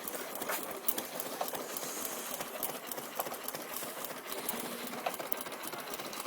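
12 hp International Harvester Famous throttle-governed gasoline engine running, with a steady stream of mechanical clicking and clatter from its valve gear and ignition.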